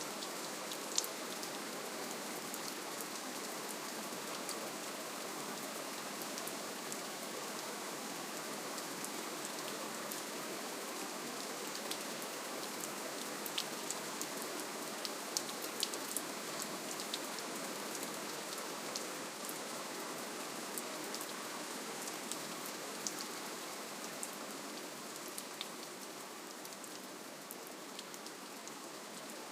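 Soft, steady rainfall: an even hiss of rain with scattered sharp ticks of single drops landing close by. It grows a little quieter near the end.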